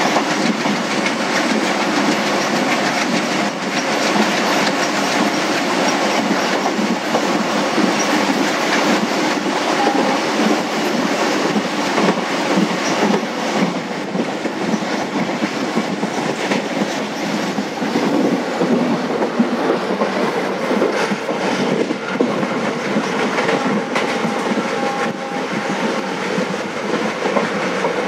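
Passenger train running at speed, heard from an open coach doorway: steel wheels clattering over the rail joints in an irregular clickety-clack over the steady rumble and rush of the moving coaches.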